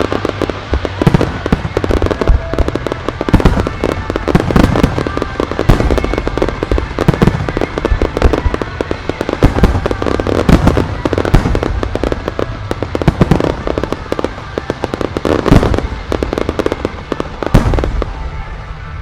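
Aerial fireworks shells bursting in a dense, continuous barrage of booms and crackles, with one of the loudest bursts near the end.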